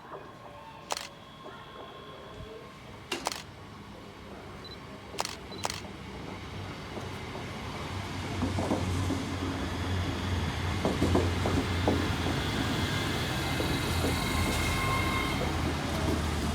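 A train approaching, its low rumble and wheel clatter on the rails growing louder from about halfway and staying loud. Earlier, a few sharp clicks.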